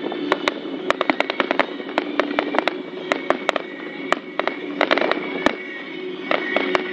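Fireworks display: a rapid, irregular barrage of sharp bangs and crackles, many overlapping, with no pause.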